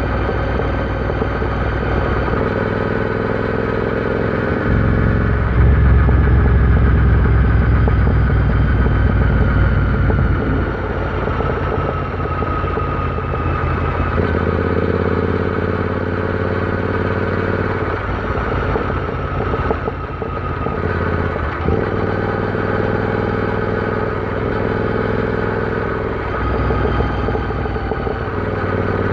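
Royal Enfield Interceptor 650's parallel-twin engine running under way, its note shifting up and down several times with throttle and load, and louder for a few seconds near the start.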